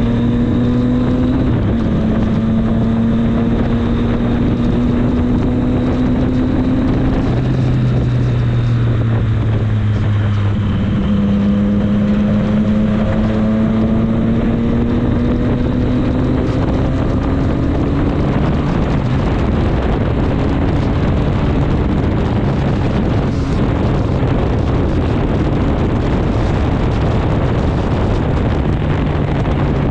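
Triumph Street Triple 765 S inline-three engine under way on the road, its note climbing slowly and dropping abruptly at a few gear changes in the first ten seconds or so. Heavy wind rush on the microphone grows and partly buries the engine in the later part.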